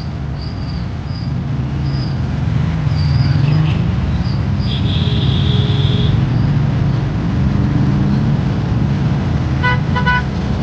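Road traffic with a steady low engine rumble, and a vehicle horn beeping twice in quick succession near the end.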